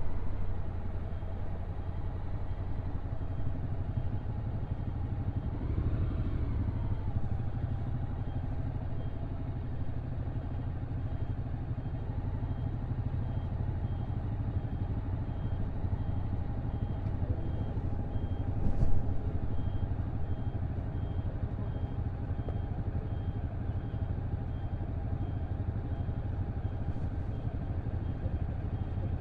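Honda NC750X DCT's parallel-twin engine running steadily at low load on a downhill ride, with road and wind noise. A brief rise and fall in pitch comes about six seconds in, and a single sharp knock about nineteen seconds in.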